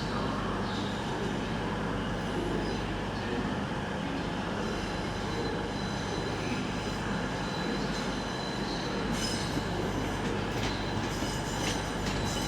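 GWR Class 150 Sprinter diesel multiple unit running into the platform, a steady rumble of engine and wheels on rail with a thin high squeal partway through.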